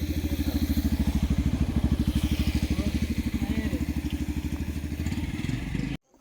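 Motorcycle engine running nearby with a fast, even throb, loudest about two seconds in and easing a little afterwards; it cuts off suddenly near the end.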